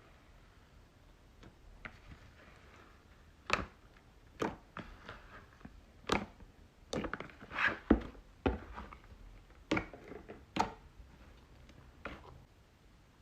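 Slime being pressed and squeezed by hand, giving irregular sharp pops and crackles that start a few seconds in and thin out near the end.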